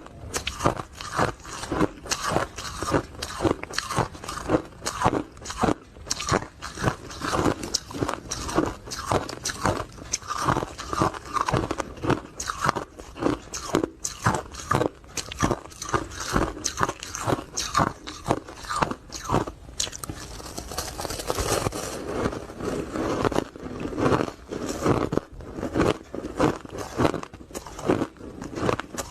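Ice cubes being bitten and chewed close to the microphone: rapid, dense crunching, several crunches a second, with a short stretch of softer grinding chewing about two-thirds of the way through.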